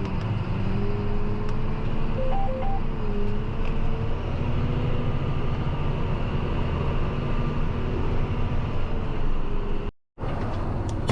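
Tractor diesel engine running steadily, with two short beeps a little over two seconds in. The sound drops out for a moment near the end.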